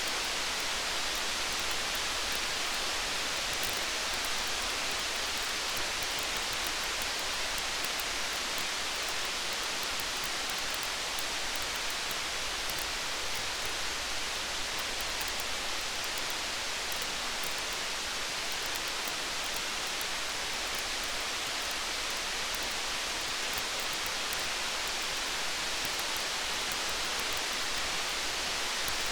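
Steady rain falling, with a campfire's faint crackles.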